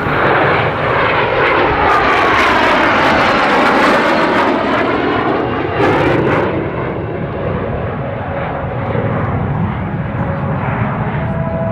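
Jet aircraft flying past, loudest in the first half, with a whine that sweeps down in pitch as it goes by, then a steadier rumble as it moves away.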